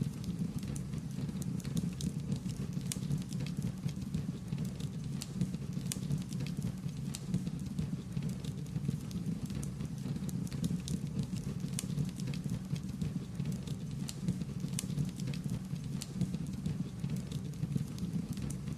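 Wood fire crackling: frequent sharp pops and snaps, irregular and several a second, over a steady low rumble of the burning fire.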